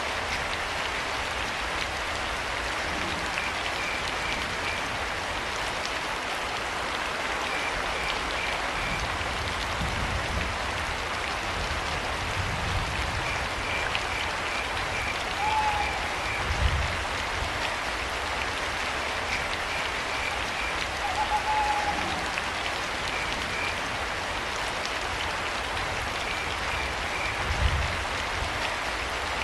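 Steady rain falling, with crickets chirping in short trains of a few quick high chirps repeated every few seconds. Twice a brief falling owl call sounds over the rain, and a couple of low thuds stand out.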